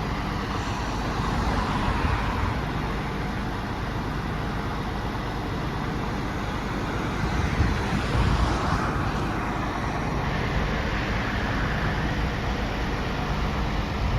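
Truck engine running steadily under a broad rushing noise, which swells a little about eight seconds in.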